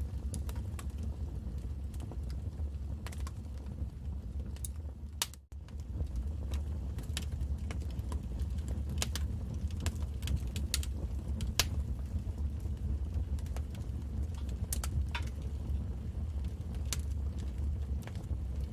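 Wood fire crackling: irregular sharp pops and snaps over a steady low rumble. The sound cuts out for an instant about five seconds in.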